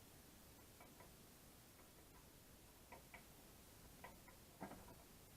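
Near silence with a few faint, irregularly spaced light clicks, some in close pairs; the loudest comes about four and a half seconds in.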